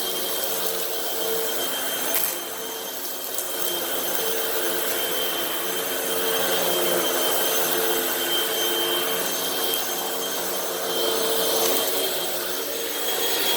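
Hoover WindTunnel High Capacity Pet upright vacuum running steadily with a high motor whine while picking up dirt and debris, with a few sharp clicks of debris being sucked in.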